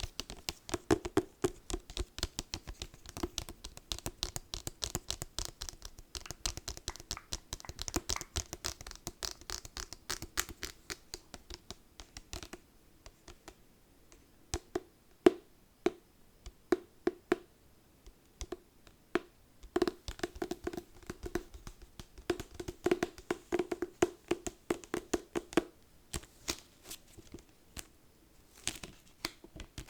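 Fingers tapping and scratching quickly on a book: a dense run of light taps and scratches that thins out about halfway, picks up again, and ends with a few scattered taps.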